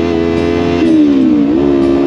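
Motorcycle engine running at high revs, its pitch dipping about a second in and then climbing again.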